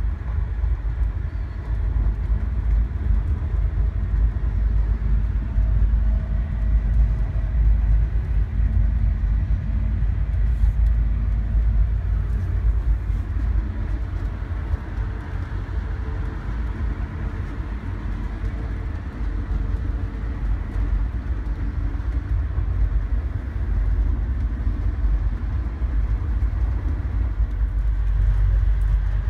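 Amtrak passenger train running at speed, heard from inside a sleeper compartment as a steady low rumble.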